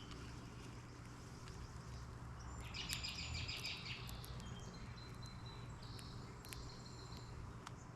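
Songbirds calling at a feeder: a short, rapid chattering trill about three seconds in, then several thin, high whistled notes, with a few sharp clicks, over a steady low hum.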